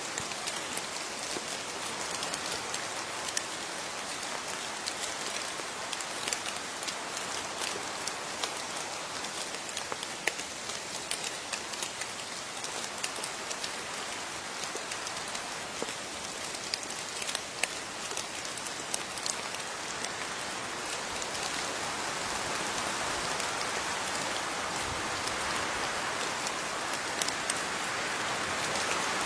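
Steady rain falling, a constant hiss with many distinct drop ticks and patters on a surface, swelling slightly louder near the end.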